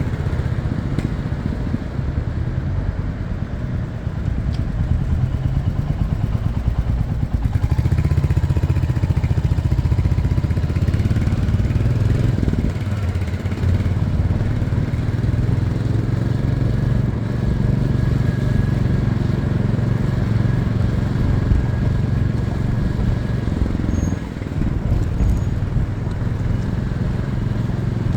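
Motorcycle engine running on a ride, steady, with its level and pitch shifting. It grows louder about a quarter of the way in and drops briefly in pitch about halfway through.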